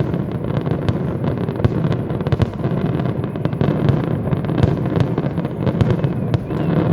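Aerial fireworks going off in rapid succession: a continuous dense rumble of overlapping bangs and crackling.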